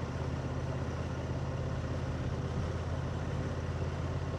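Motorcycle engine idling steadily at low, even revs.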